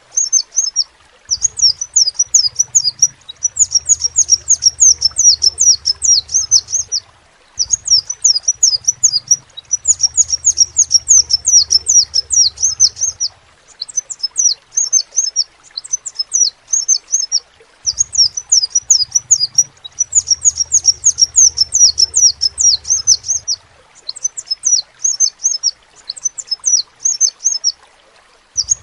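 Crimson sunbird (sepah raja) singing: rapid, high-pitched twittering trills in phrases a few seconds long, separated by short pauses.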